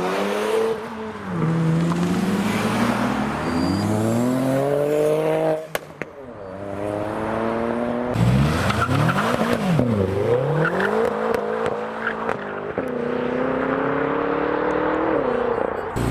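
Modified car engines revving and accelerating away. The engine note climbs and drops through gear changes in the first half. In the second half it blips sharply up and down several times, holds a high rev, then falls away near the end.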